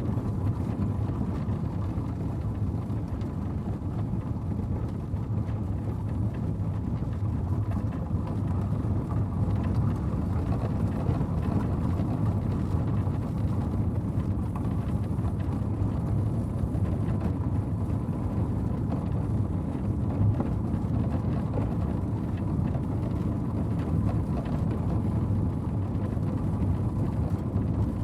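Norwich Union stagecoach drawn by four horses rolling along, a steady low rumble of the coach in motion with faint scattered knocks.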